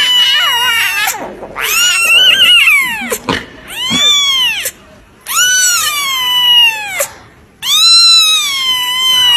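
Domestic cat meowing over and over: a string of about five long, drawn-out meows, each rising and falling in pitch, with short pauses between them.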